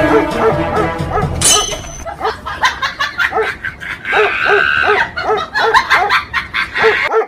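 A dog barking in a fast run of short, sharp barks, about three a second. Music with steady held notes plays over the first couple of seconds.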